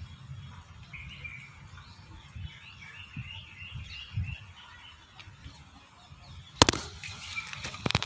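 Birds chirping in a series of short, high calls over a faint low rumble. Near the end comes a sharp knock, the loudest sound, then a smaller one.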